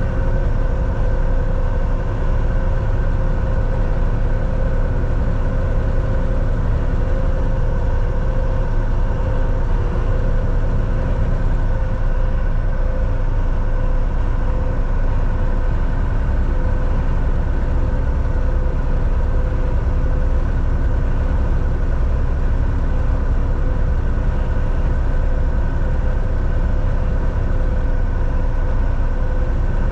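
Volvo VNL 760 semi-truck driving, heard from inside the cab: a steady engine drone and road noise with a few constant hums, unchanging throughout.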